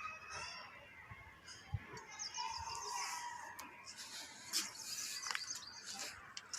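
Faint bird calls, including a quick run of high chirps about two to three seconds in.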